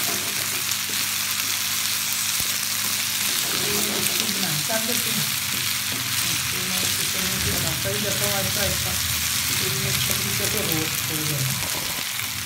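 Diced potatoes and onions frying in a nonstick pan with a steady sizzle, turned over with a wooden spatula.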